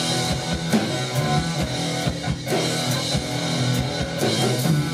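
Live rock band playing an instrumental passage between sung lines: guitars over a steady drum-kit beat.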